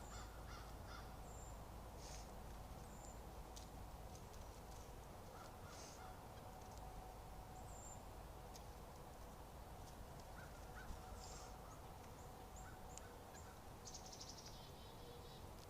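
Birds calling faintly, in short, scattered high-pitched chirps, with a denser patch of calls near the end, over a faint steady hum.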